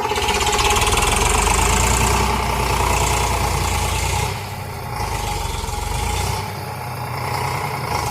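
Diesel tractor engine running steadily. Its sound eases off and picks up again about halfway through and once more near the end.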